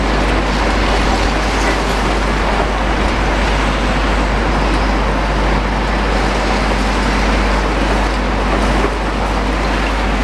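Heavy demolition machines working: a loud, steady mechanical noise with a constant deep rumble underneath.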